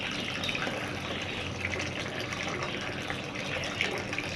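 Water running steadily into a water container, with a light splashing.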